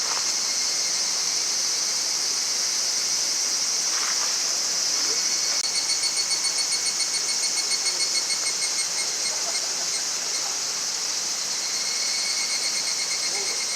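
Insects chirping: a steady high-pitched chorus, joined about six seconds in by a fast pulsing trill that fades a few seconds later and starts again near the end.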